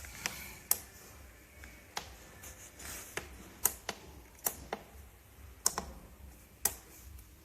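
A series of sharp, irregular clicks and taps, about eight in all, over a faint low hum.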